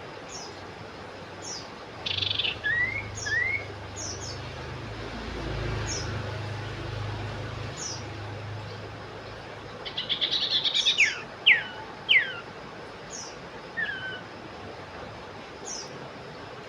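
Common iora (cipoh) calling: a short buzzy chatter followed by two rising whistles, then about ten seconds in a longer rattling chatter and several sharp falling whistles. Thin high notes repeat about once a second throughout, and a low hum swells and fades in the first half.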